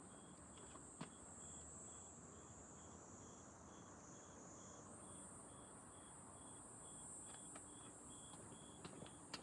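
Faint chorus of night insects such as crickets. One keeps up a steady high trill that sinks slightly and then jumps back up about halfway through. Another chirps in short even pulses about three times a second.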